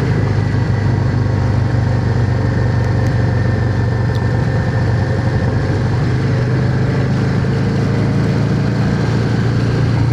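Yamaha XVS650's air-cooled V-twin engine running steadily at low revs while the motorcycle is ridden, with no rise or fall in pitch.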